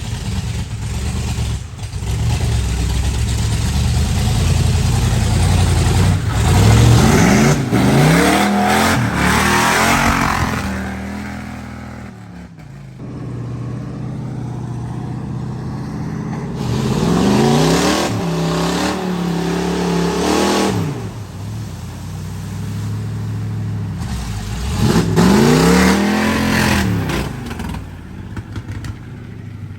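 Ford mud truck's engine revving hard in three surges, its pitch climbing and falling back each time, over a steady rumble.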